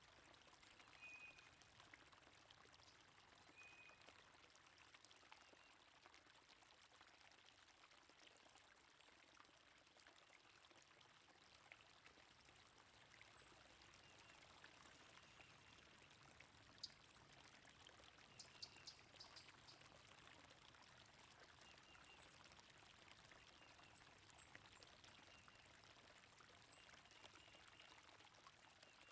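Faint, steady flowing stream water, with soft short bird chirps scattered throughout and a brief run of sharp clicks about two-thirds of the way through.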